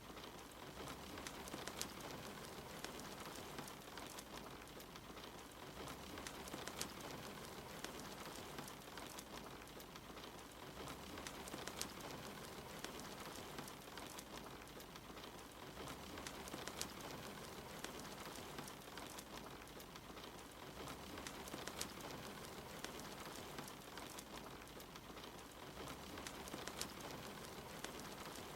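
Soft, steady rain with a wood fire crackling, a sharp pop now and then.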